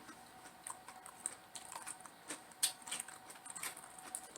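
Faint, irregular small crunches and clicks of chewing crispy battered fried chicken close to the microphone.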